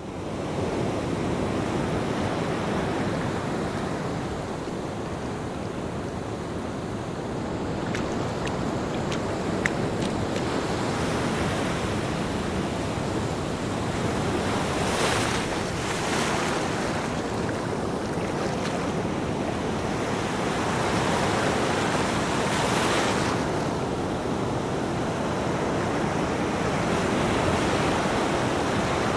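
Ocean waves breaking on a beach, a continuous wash of surf with louder surges as waves break, about halfway through and again a few seconds later.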